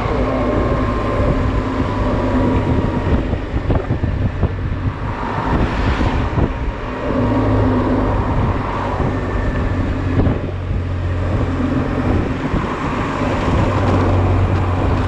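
Honda Silver Wing scooter's engine running while riding, with wind noise on the microphone; the engine hum grows stronger from about seven seconds in.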